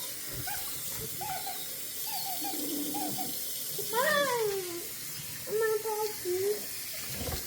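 Basset hound puppies whimpering in a run of short, high cries over running bath water, with one longer, louder falling whine about four seconds in.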